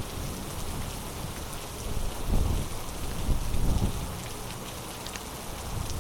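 Heavy rain falling steadily in a storm, with scattered sharp drops ticking on nearby surfaces. A low rumble swells up between about two and four seconds in.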